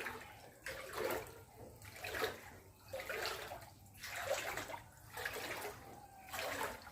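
Floodwater splashing and sloshing in soft swells about once a second.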